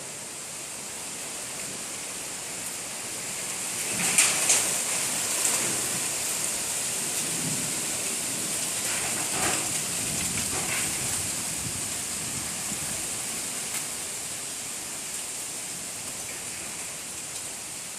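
Strong gusty wind rushing steadily, swelling into harder gusts about four seconds in and again around nine to eleven seconds.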